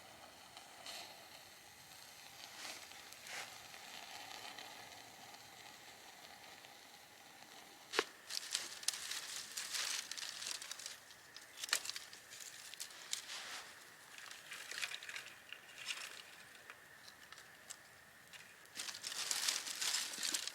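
Campfire being started: irregular crackles, snaps and crinkling rustles of kindling catching, beginning about eight seconds in after faint background hiss, with a denser run of crackling near the end.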